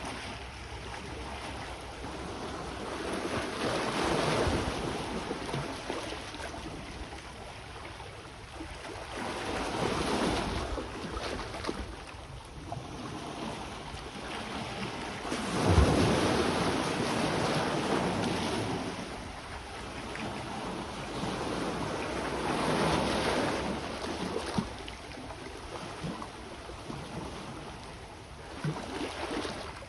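Sea waves washing onto the shore, the surf swelling and fading about every six seconds, with some wind noise on the microphone; the loudest wave comes about halfway through.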